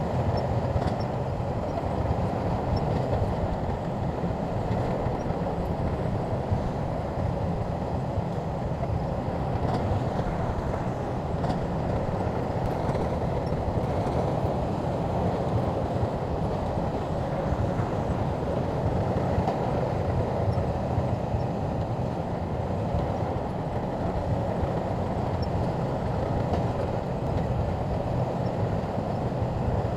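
Shantui crawler bulldozer running steadily as it works, its diesel engine and running gear giving a continuous low mechanical noise.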